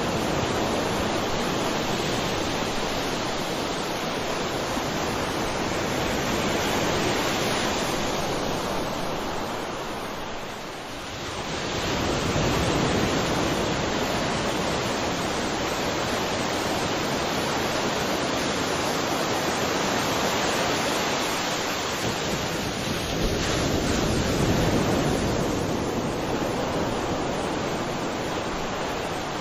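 Sea waves breaking and washing on a shore: continuous surf noise that swells and eases, dipping briefly about a third of the way in.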